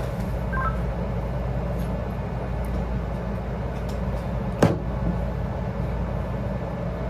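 Steady low hum of a running vehicle motor. A few short high beeps sound about half a second in, and a single sharp click comes a little past halfway.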